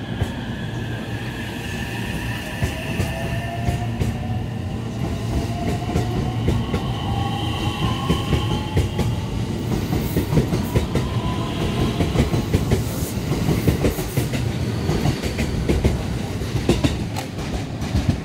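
Electric commuter train pulling out of a station and accelerating past. The traction motor whine rises steadily in pitch over a low running rumble, and the wheels clack over the rail joints more and more often as the train picks up speed.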